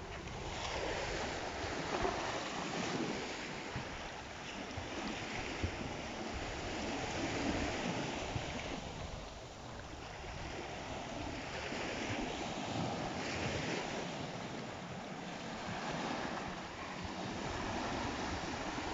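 Sea waves washing onto a sandy beach, the wash swelling and fading every four to five seconds, with some wind on the microphone.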